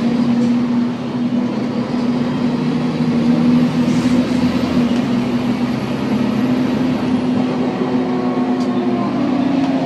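Volvo B7TL double-decker bus on the move, its driveline giving a steady whine over road and engine noise, with overtones that shift slightly in pitch: odd sounds from the differential.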